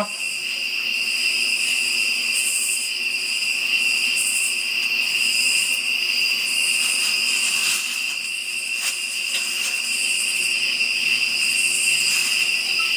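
Night insect chorus: crickets trilling in a steady high drone, with higher shrill calls swelling and fading at uneven intervals over it.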